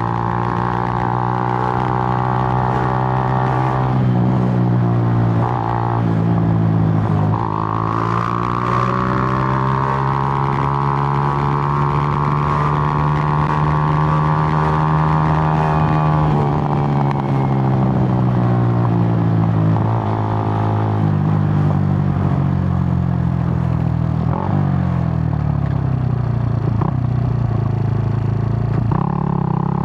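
Suzuki GN125's single-cylinder four-stroke engine pulling a ride. Its pitch dips at gear changes about 4 and 7 seconds in, holds a long steady pull, drops about halfway through as the throttle eases, then shifts a few more times and rises again near the end.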